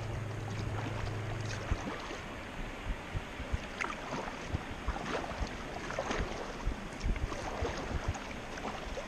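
Kayak paddling on open water: irregular paddle splashes and water knocking against the hull. A low steady drone stops under two seconds in.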